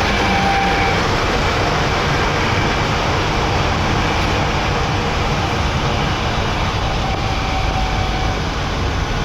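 Heavy truck on the move: a steady, loud engine rumble mixed with road noise.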